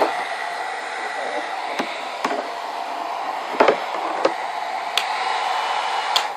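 Hair dryer running steadily, a rush of air with a faint whine in it, broken by a few light knocks. It switches off right at the end.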